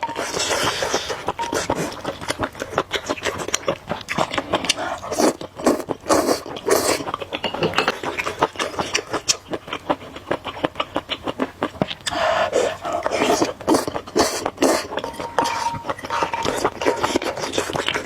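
A person eating spicy noodles close to the microphone: slurping and chewing with many quick wet mouth clicks and smacks, louder slurps about half a second in and again around twelve seconds in.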